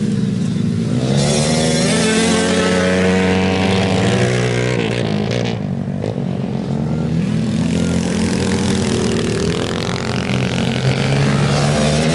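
Several motorcycle engines running hard and revving, their pitch rising and falling as the bikes accelerate and pass.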